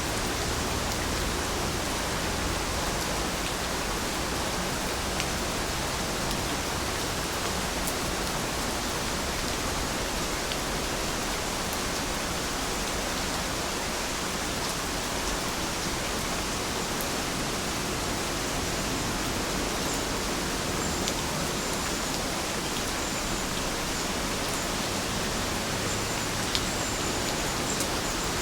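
Steady heavy rain, a dense even hiss of falling drops, with a few faint drip ticks.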